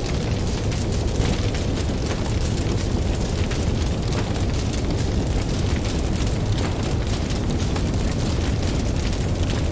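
Wood campfire crackling with many small pops over a steady low rumble of ocean surf.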